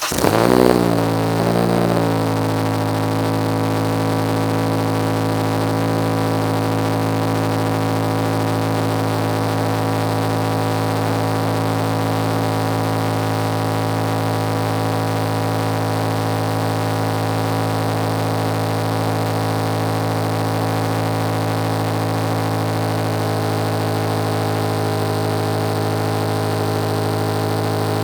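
Acura RSX's 2.0-litre four-cylinder engine, breathing through a custom 3-inch straight-piped exhaust with a K-tuned muffler, just after starting. The revs flare and settle over the first two seconds, then it idles steadily and loudly.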